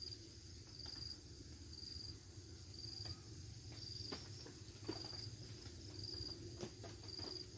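Insect chirping: a short high-pitched chirp repeating evenly about once a second, faint, with a few soft clicks in between.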